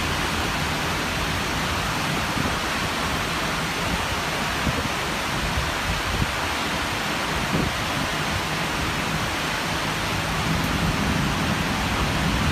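Heavy torrential rain pouring down, a dense, steady hiss with no let-up.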